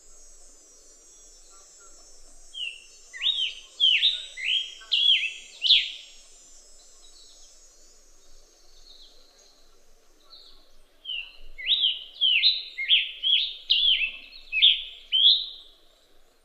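A bird singing: two bouts of loud, clear notes repeated about two a second, each note a quick sweep in pitch, with the second bout longer than the first. A faint high shrill sound runs underneath at the start.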